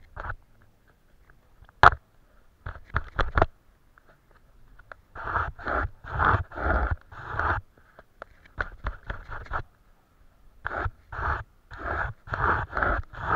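Paintbrush strokes scraping across paper: a sharp tap about two seconds in, then runs of quick strokes, about three a second, from about five seconds in and again near the end.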